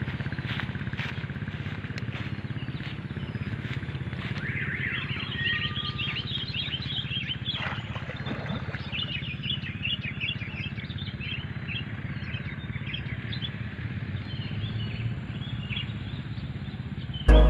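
Small birds chirping in quick, repeated short notes from about four seconds in, over a steady low drone of a motor running.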